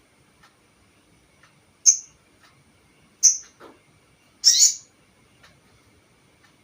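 Sogon bird calling: three short, sharp high chirps, the last a quick double, with faint ticking calls about once a second between them.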